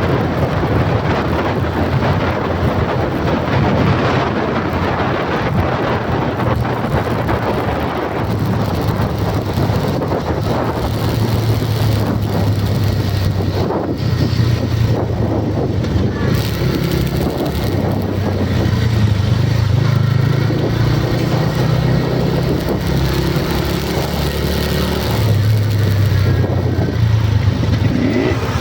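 Motor vehicle running steadily with dense, loud road and wind noise; a low engine hum grows stronger about ten seconds in.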